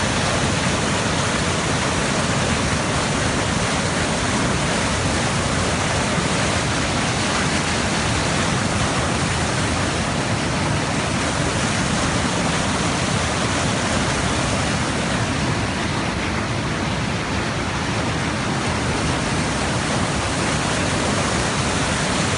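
Rushing water running steadily, a dense even noise with no breaks, as from a fast stream or small waterfall.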